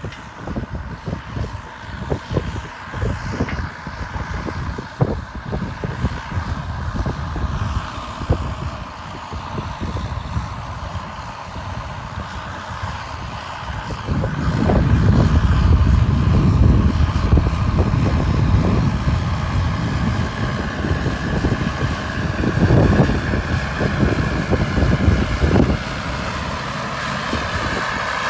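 Caterpillar D6R2 crawler bulldozer working: the diesel engine runs continuously under many short clanks and knocks. About halfway through the rumble grows louder and deeper, then eases a little near the end.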